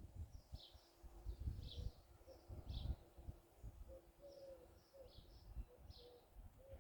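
Faint outdoor birdsong: small birds giving short high chirps, about one or two a second. From about four seconds in a dove coos softly, with irregular low rumbles underneath.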